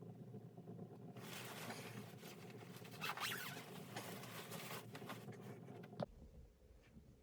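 A rasping scrape that runs for about five seconds, loudest around the middle, and ends in a sharp click.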